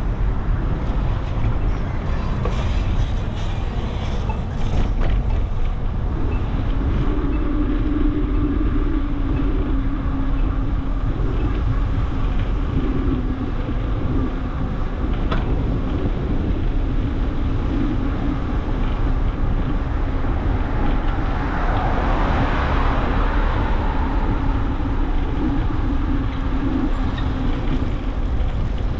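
Wind rushing over the microphone of a camera on a moving bicycle, with road noise and a wavering hum underneath; a swell of noise rises and falls about 22 seconds in.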